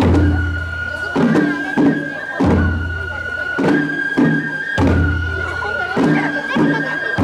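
Japanese shrine-festival music: a high, held piping tone that steps between notes, over a deep drum struck about every two and a half seconds, with lighter strikes in between.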